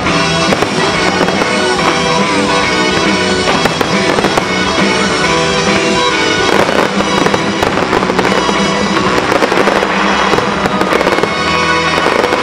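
Aerial fireworks bursting in quick succession with dense crackling, the bangs thickest from about halfway through to near the end, over loud music.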